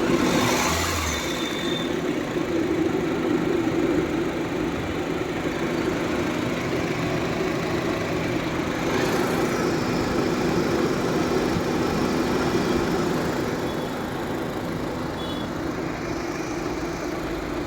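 Honda City i-VTEC petrol engine idling steadily with the AC on. No knocking or rattle is heard: the faulty drive-belt adjuster parts have been replaced and the knock is cured.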